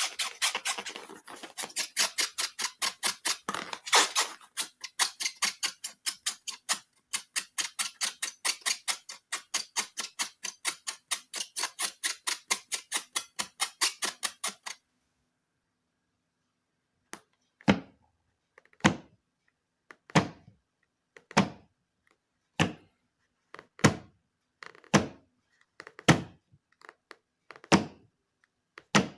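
Scissors snipping quickly, about four or five crisp clicks a second, for about fifteen seconds. After a short pause comes a series of separate dull thuds, about one a second.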